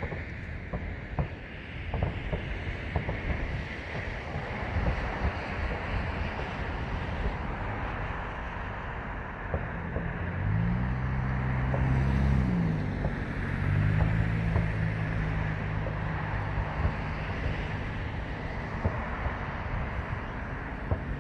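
Distant fireworks going off in a run of dull bangs and pops, over steady road traffic noise and wind on the microphone. About ten seconds in, a passing vehicle's engine rises in pitch, drops, then holds for a few seconds, and it is the loudest sound.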